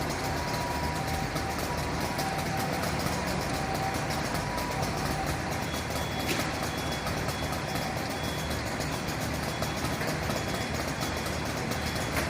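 Fire truck engine running steadily at idle, with faint on-and-off tones above it.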